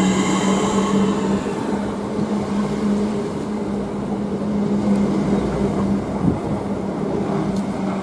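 A train running through the station: a steady low hum with a rail-noise haze, and higher whining tones that fade away over the first second or so.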